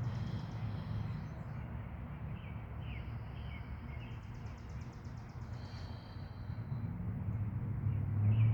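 Birds chirping, with a rapid high trill about four seconds in and short falling chirps before it, over a steady low outdoor rumble.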